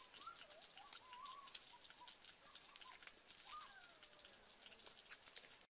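Faint birds calling in the background, wavering and gliding whistles, with scattered soft clicks and crackles.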